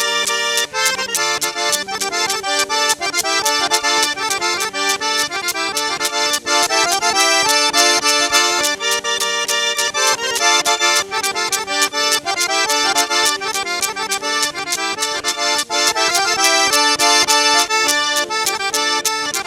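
Lively traditional North Caucasian dance music led by an accordion, with a fast, steady beat.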